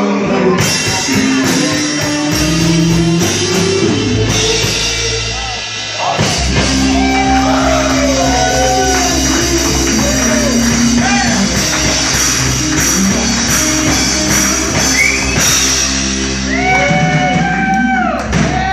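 Rock music: a full band with drum kit playing an instrumental stretch, a lead line of sliding, bent notes over it. The band drops back briefly about six seconds in, then comes in again.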